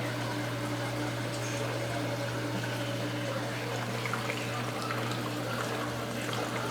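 Aquarium filter and pump running: a steady low hum with water trickling and splashing, and a few faint ticks in the second half.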